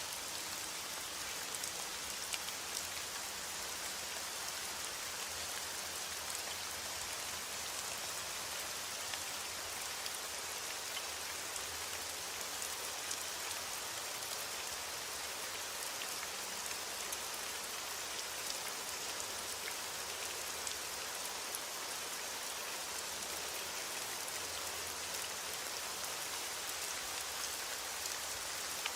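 Steady rain falling: an even hiss of drops with scattered sharper ticks of individual drops.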